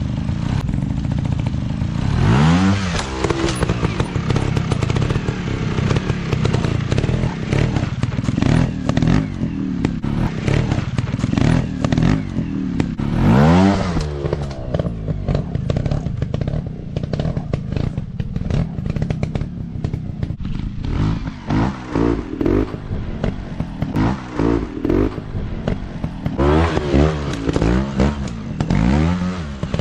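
Dirt bike engine running and revving: the revs climb sharply about two seconds in, again around the middle, and near the end, with a run of quick throttle blips in between.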